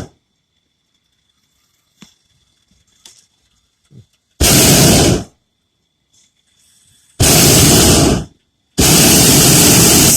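Hot-air balloon's propane burner firing in three blasts: a short one a little over four seconds in, another of about a second, then a longer one starting near the end that runs on.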